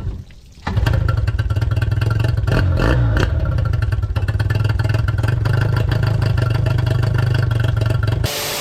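Small engine starting up under a second in and then running steadily at a fast idle, loud and even, until it cuts off suddenly near the end.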